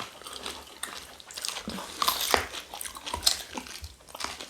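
People chewing and biting on pieces of cow tail from a pepper soup, heard close up as a run of irregular short clicks.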